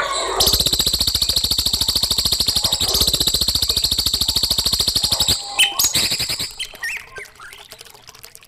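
Recorded songbird song: a fast, even trill of rapidly repeated high notes lasting about five seconds, followed by a few short chirps.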